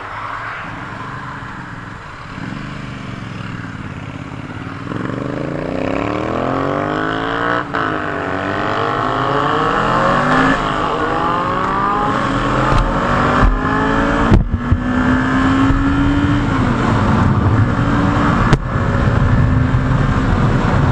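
Motorcycle engine revving up and dropping back through gear changes on the move, getting louder after the first few seconds, with two sharp knocks later on.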